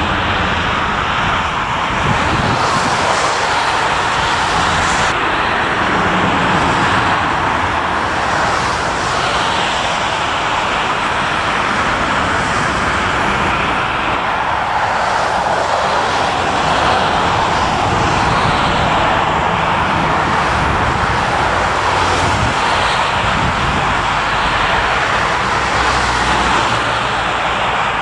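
Jet engines of an Airbus A319 airliner running, a loud, steady engine noise with no clear change in level.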